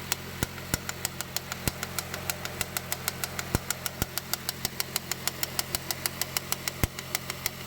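2009 Honda CR-V engine idling cold, with a fast, even ticking of about six sharp clicks a second over the steady engine hum. It is the cold-start noise that the owner says fades once the engine warms up, and the mechanic blames a failing power steering pump.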